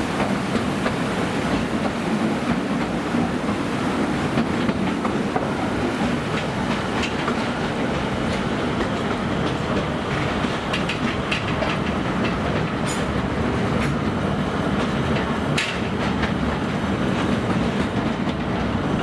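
Aboard the narrow-gauge Akasawa Forest Railway train while it runs: a steady rumble of the train and its wheels on the rails. In the second half, sharp clicks from the wheels over the track join in.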